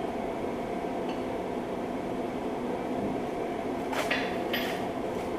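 Two light metallic clinks, one about four seconds in and another half a second later, over a steady mechanical hum.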